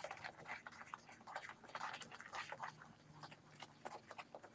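Faint, irregular clicking and scraping of kitchen utensils against a mixing bowl as eggs are worked into a batter, many small clicks a second with no steady rhythm.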